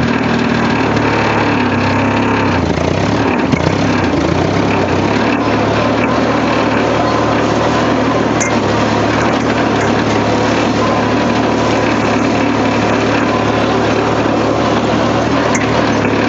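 Tractor engine running steadily; its speed shifts and settles about three seconds in.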